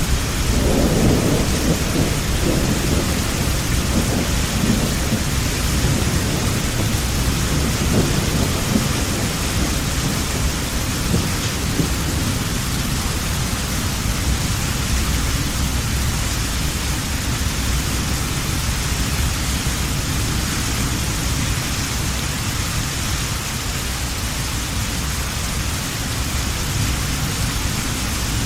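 Heavy rain falling steadily, with a low roll of thunder rumbling through the first ten seconds or so and then fading away, leaving the rain.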